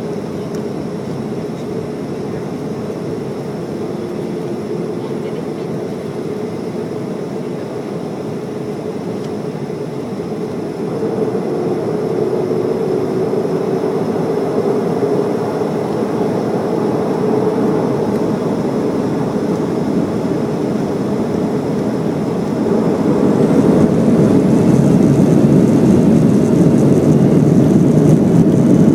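Boeing 737 jet engines running with a steady roar and a faint high whine. The sound grows louder in two steps, about eleven seconds in and again near the end, as thrust is built up for takeoff.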